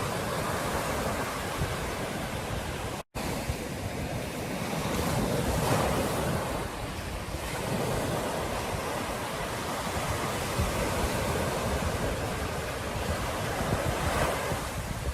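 Ocean surf breaking on a beach: a steady wash of waves that swells and eases. The sound cuts out for an instant about three seconds in.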